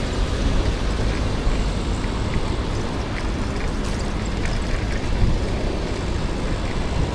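Steady street and traffic noise heard while cycling through a city, with a heavy low rumble throughout.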